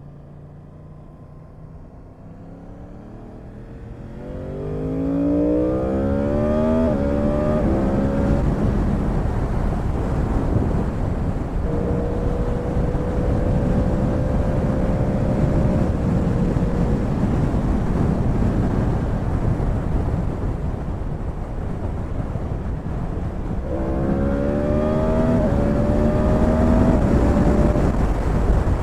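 Yamaha YZF-R1's inline-four engine at full throttle, its pitch climbing and dropping back with each quick upshift, then holding high speed under a heavy rush of wind. Near the end it climbs through the gears again.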